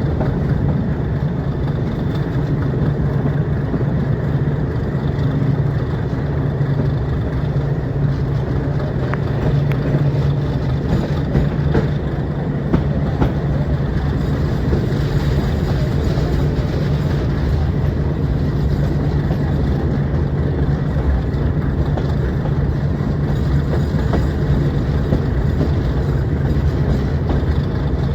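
Metre-gauge train with its YDM-4 diesel locomotive, the engine giving a steady low drone over the train's even rumble, with a few faint clicks about ten to thirteen seconds in.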